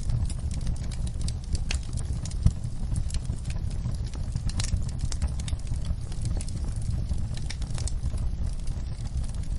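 Wood fire crackling: frequent sharp irregular pops and snaps over a steady low rumble of the flames, with one louder pop about two and a half seconds in.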